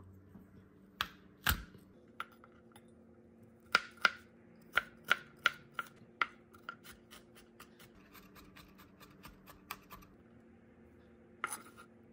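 Food being cut: a run of sharp, irregular cutting taps, closest together in the middle at about three a second, over a faint steady hum.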